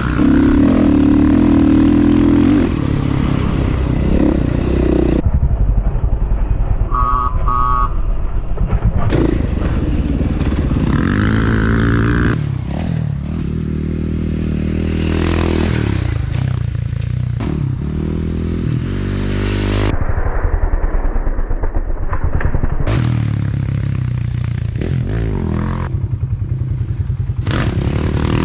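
Dirt bike engine being ridden hard, revving up and down over and over as the rider runs through the gears and throttles on and off.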